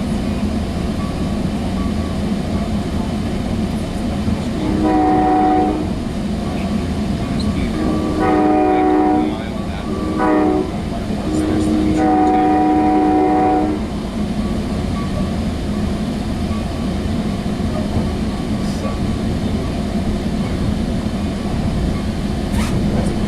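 Sound Transit Sounder commuter train running, with a steady rumble of the car underway, while the train's horn sounds long, long, short, long about five seconds in: the standard signal for approaching a grade crossing.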